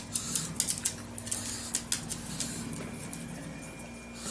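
A small dog's claws clicking and pattering on a hard floor in scattered light ticks, most of them in the first half, over a faint steady hum.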